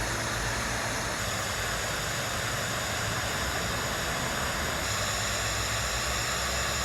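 Steady, even hiss of outdoor background noise picked up by the nest camera's microphone, with no distinct calls or knocks.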